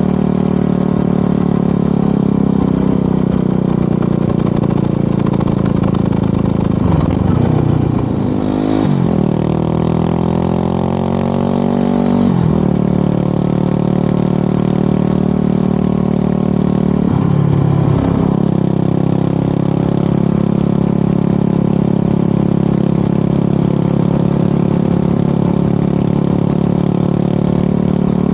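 Yamaha WR250R single-cylinder motorcycle engine through an FMF Powercore 4 exhaust, running at steady riding revs. The pitch dips and climbs again briefly about seven seconds in, around twelve seconds and around eighteen seconds, as with gear changes.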